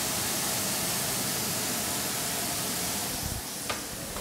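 Sliced mushrooms sizzling in hot oil in frying pans: a steady hiss that gets quieter about three seconds in. A single sharp click near the end.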